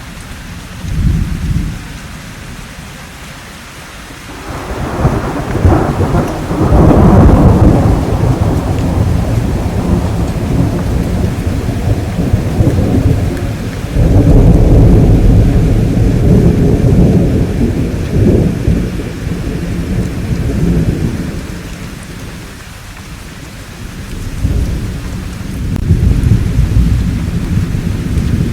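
Thunder rolling over steady rainfall: a long low rumble building a few seconds in, another about halfway through, and a shorter one near the end.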